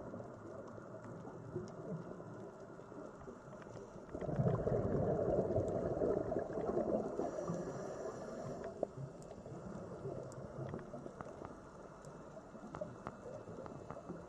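Underwater ambience: a low, muffled wash of water noise with scattered faint clicks, swelling into a louder rush about four seconds in before settling back.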